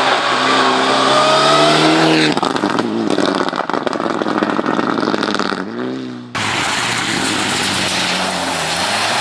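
Mitsubishi Lancer Evolution's turbocharged inline-four revving up with a rising pitch, then a stretch of rapid crackling, then the revs dropping away. About six seconds in it cuts suddenly to another clip of loud car engine noise.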